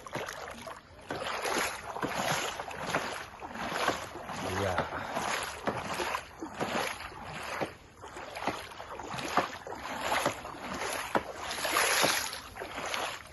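A small boat being rowed: water splashing and swishing with each stroke, repeated more than once a second.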